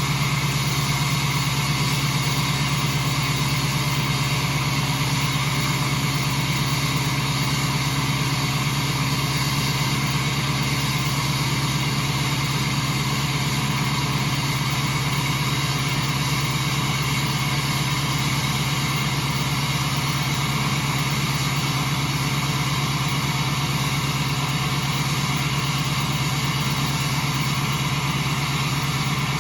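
2006 Duramax LBZ 6.6-litre V8 turbo-diesel idling steadily through a straight-piped 5-inch exhaust, warming up after a cold start.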